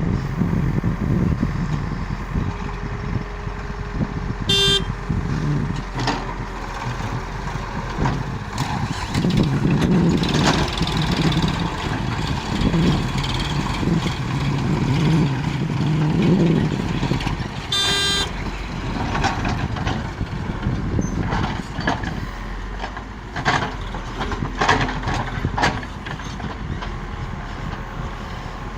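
Heavy diesel vehicle engines running and revving unevenly, with two short horn toots, about five seconds in and again near eighteen seconds, and a few scattered knocks.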